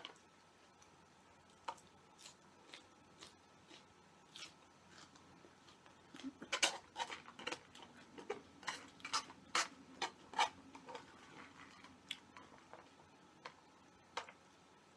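Close-miked eating: scattered sharp crunches and mouth clicks of chewing, coming thick and fast from about six to eleven seconds in.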